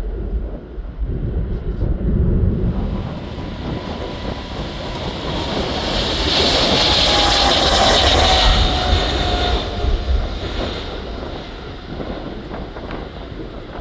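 Jet airliner's engines on takeoff: a rushing roar swells to its loudest about seven seconds in, with a thin whine that slides down in pitch as the aircraft passes, then eases off. Wind rumbles on the microphone.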